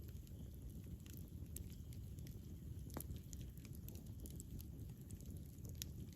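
Burning wood fire crackling, with irregular sharp pops and snaps over a low steady rumble of flame. The strongest pops come about a second in, near the middle and near the end.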